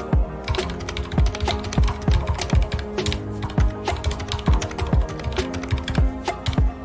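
Continuous fast typing on a mechanical keyboard with red linear switches: many quick, irregular key clicks, mixed over background music with a steady beat of about two pulses a second.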